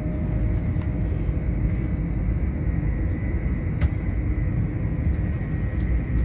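Steady low rumble of an LNER passenger train running at speed, heard from inside the carriage, with a single sharp click about four seconds in.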